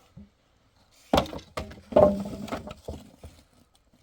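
Heavy knocks and clattering, as of wood or debris being struck and broken. There are three loud strikes: about a second in, about two seconds in, and at the end.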